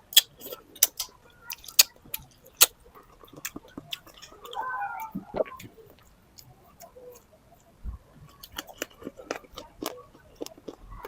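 Close-up eating sounds of a person chewing native chicken tinola: irregular sharp mouth clicks and smacks, with a brief pitched sound about halfway through.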